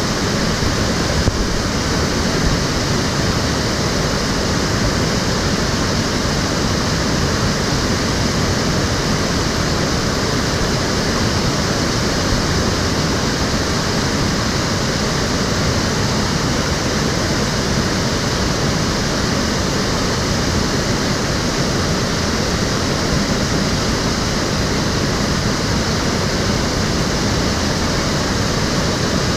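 Stream water flowing steadily over the streambed, a continuous even rush of water.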